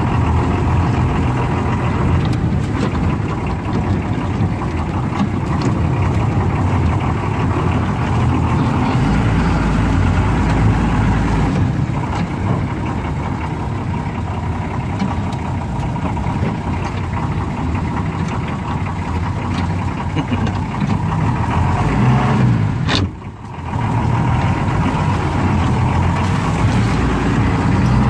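Jeep-style off-road vehicle's engine running steadily as it drives over a rough dirt trail, heard from inside the cab, with scattered rattles and knocks from the body. The sound dips briefly near the end.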